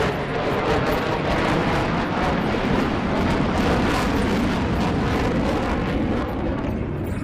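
Loud, rough jet noise with a crackle from an F-35A's Pratt & Whitney F135 engine in flight, easing off slightly near the end.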